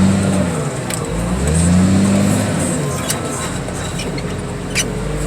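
Car crusher's engine working under load, its pitch rising and falling twice before settling to a steady drone, with a few sharp knocks partway through.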